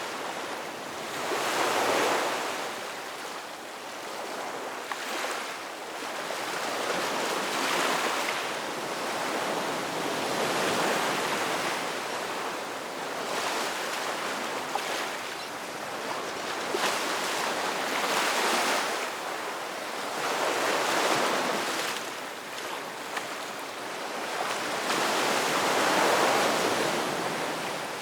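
Ocean waves breaking and washing on a shore, swelling and fading every few seconds.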